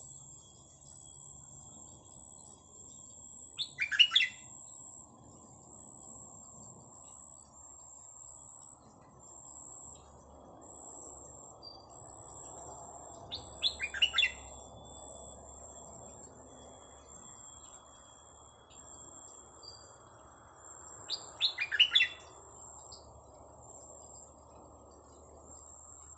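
Petpet bird calls: a quick cluster of sharp notes three times, each roughly eight to ten seconds apart, over a faint steady high pulsing that sounds like insects.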